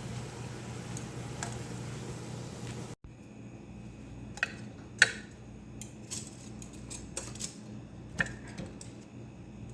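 Utensils clinking and tapping against dishes in a series of sharp, irregular clicks, the loudest about halfway through. In the first few seconds, before an abrupt cut, there is only a steady hum with faint ticks.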